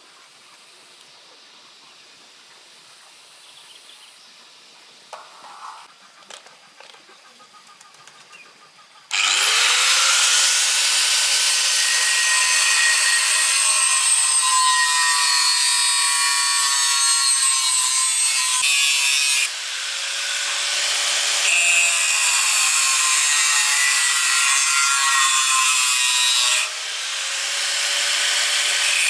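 After a few quiet seconds with light knocks, an angle grinder starts, its motor tone rising to speed. It then grinds or cuts iron bar with a loud, steady, hissing whine. Twice the sound drops suddenly and builds back up.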